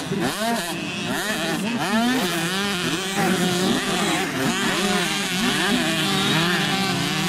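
Several 65cc two-stroke motocross bikes racing, their engines revving up and falling back over and over as the riders work the throttle around the track.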